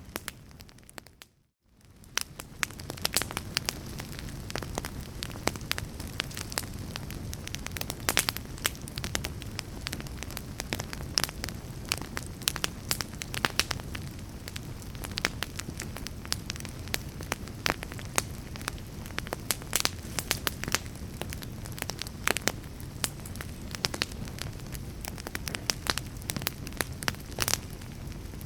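Fire crackling: a steady low rumble with frequent sharp pops and snaps. About a second and a half in, it dips almost to silence, then fades back in.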